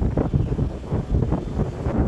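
Wind buffeting the microphone: uneven, gusty low rumbling noise.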